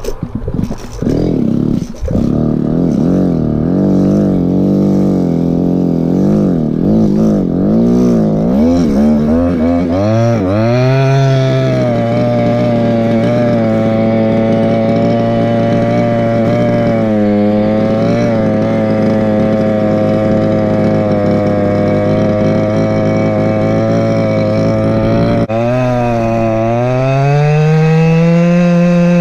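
Go-Ped scooter's small two-stroke CY26RC engine running. Its pitch wavers up and down for the first ten seconds. About ten seconds in it climbs to a steady high-pitched cruise. It eases off briefly near the middle, drops sharply about four seconds before the end, then climbs again.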